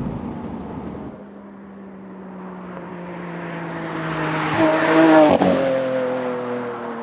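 Lamborghini Aventador's 6.5-litre naturally aspirated V12 engine. It drops back, then swells to a loud peak about five seconds in, where its pitch falls sharply, and then fades away.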